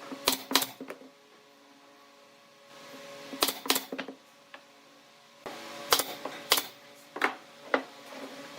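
A series of sharp knocks, mostly in pairs a fraction of a second apart, each ringing briefly, over a faint steady hum.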